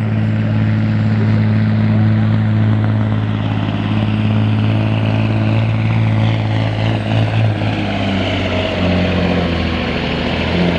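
Semi truck's diesel engine running loud and steady at high revs, pulling under load, with a high whine rising over it partway through.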